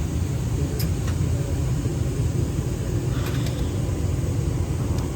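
Steady low rumble inside a parked airliner's cabin before engine start, the hum of its air-conditioning and ventilation, with a couple of short clicks and faint cabin chatter.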